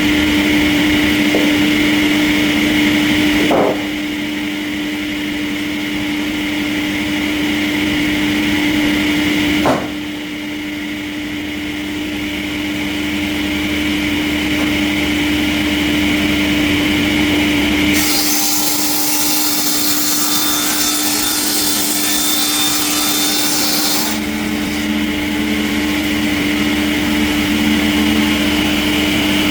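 Sawmill machinery running with a steady drone that changes abruptly several times. Past the middle, a loud high hiss joins in for about six seconds.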